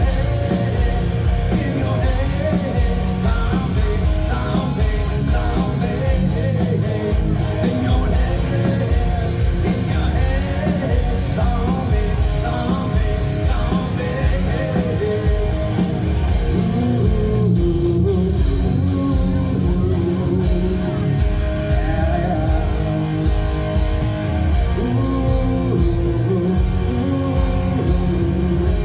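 Live rock band playing, with electric guitar and drums, plus a lead line that may be singing or guitar.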